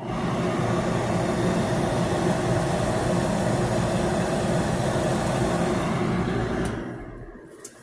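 Bosch clothes dryer running with a steady mechanical hum and rush, starting suddenly and winding down near the end; this is a dryer whose drum won't spin.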